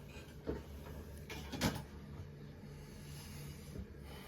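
Two short knocks of objects being handled on a work surface, the second louder, over a faint steady low hum.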